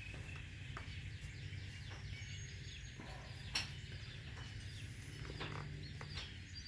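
Birds chirping in the background, many short calls, over a low steady rumble, with a single sharp click about three and a half seconds in.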